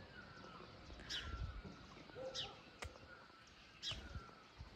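Faint birdsong: a bird repeats a short, high chirp that falls in pitch, about three times, and a single sharp click comes midway.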